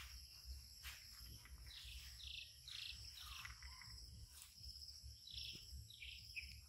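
Faint wild bird calls: two runs of short calls, each falling in pitch, over a steady high buzz of insects.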